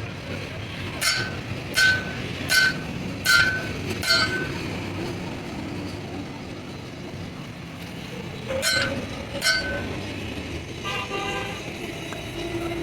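Metal struck repeatedly, each strike ringing briefly: five blows about three quarters of a second apart, then two more after a pause.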